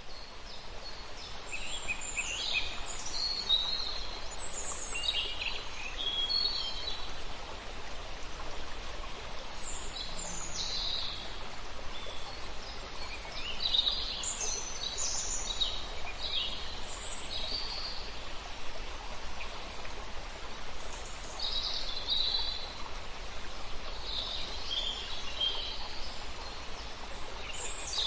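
Several birds singing and calling, with many overlapping short chirps and trills, over a steady background hiss.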